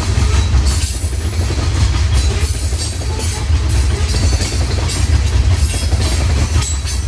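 Loaded coal hopper cars rolling past, their steel wheels clacking over the rail joints over a heavy, steady low rumble.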